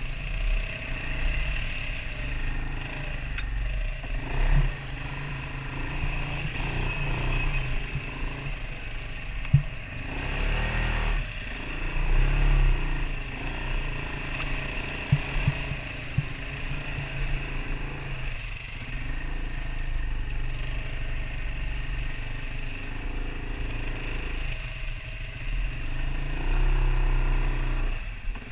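Off-road vehicle engine running, its pitch rising and falling as it is ridden along a rough trail, with occasional sharp knocks and rattles.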